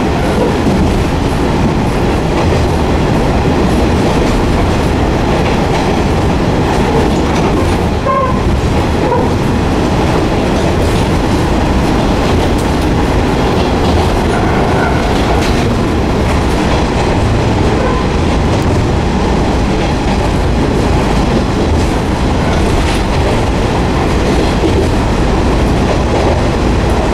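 Steady running noise inside a Kanto Railway Jōsō Line diesel railcar travelling at speed: the engine and wheels on the rails, heard from the passenger compartment.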